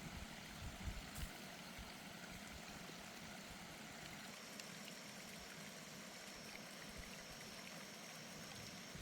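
Faint, steady rush of running water from a stream, with a few low rumbles of wind on the microphone near the start and a thin, steady high tone from about four seconds in.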